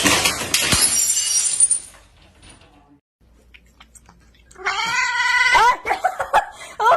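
A noisy rush for the first two seconds. Then, past the middle, a cat gives one long drawn-out meow that falls in pitch at the end, followed by several short meows.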